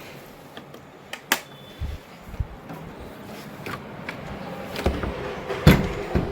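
A string of about six separate sharp knocks and thumps, the loudest near the end, over low background noise.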